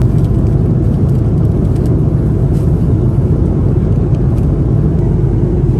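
Steady low rumble of engine and airflow noise inside the passenger cabin of an Airbus A330-200 in flight, from its Rolls-Royce Trent 700 engines, with no change in level.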